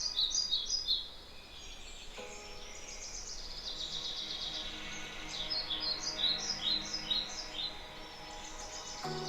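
Birds chirping in quick runs of short repeated notes, loudest about a second in and again from about five to eight seconds in, over faint background music that swells near the end.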